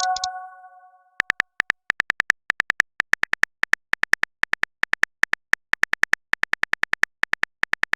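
Texting-app keyboard typing sound effect: a quick, uneven run of short ticks, several a second, starting about a second in. Before it, a chime rings out over the first second.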